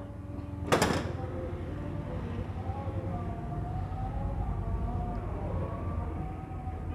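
A single sharp knock about a second in, followed by a steady low rumble with faint wavering tones.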